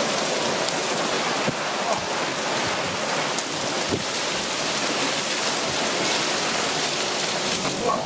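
Heavy downpour: steady, dense rain on a tiled balcony and a fabric shade sail, with runoff pouring off the sail's edge and splashing onto the tiles.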